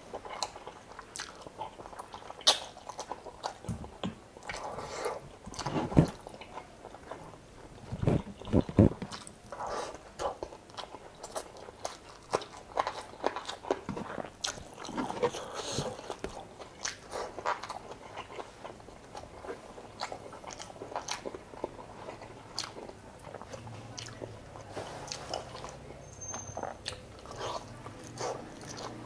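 Close-miked chewing and biting: a person eating chicken adobo and rice with bare hands, with many irregular wet mouth clicks. A few louder low thumps come around six and nine seconds in.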